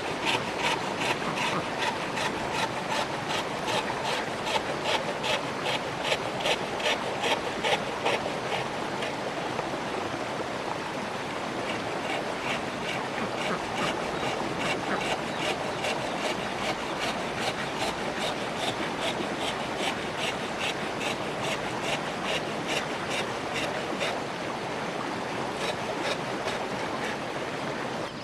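Rhythmic rasping strokes of a hand tool working wood, about three strokes a second, a little louder in the first eight seconds.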